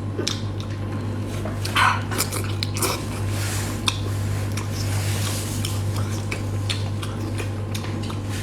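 Eating sounds: utensils clicking against dishes, with mouth noises of biting and chewing between the clicks. A steady low hum runs underneath.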